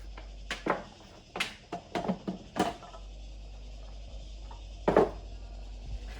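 Hard objects knocked and set down: a quick run of clatters over the first three seconds, then one louder knock near five seconds, over a steady low hum.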